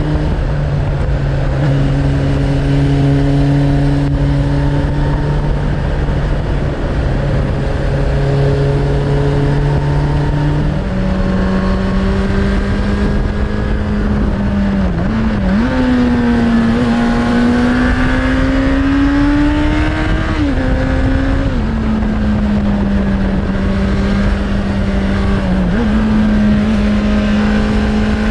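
Suzuki Bandit 600's inline-four engine through an aftermarket Hashiru exhaust, heard while riding: a steady note that steps up in pitch about eleven seconds in, then rises and falls with the throttle, over wind noise on the microphone.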